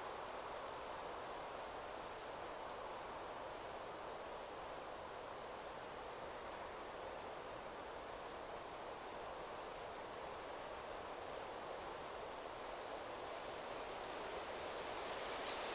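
Steady rustle of wind through forest trees, with a few brief, high, thin bird chirps: one about 4 seconds in, a short run of notes a little later, one about 11 seconds in, and a sharp call near the end.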